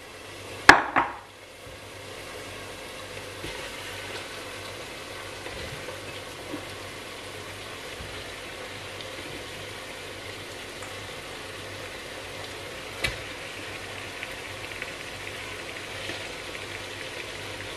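Onion, garlic and bacon frying in olive oil in a pot as pieces of lamb are laid in to brown: a steady sizzling hiss. A sharp loud knock comes about a second in, and a faint click near the end.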